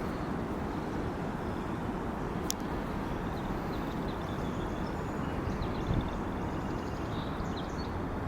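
Wind buffeting the camera's built-in microphone, a steady low rumble, with faint high chirps over it from about three seconds in and a single click a little before.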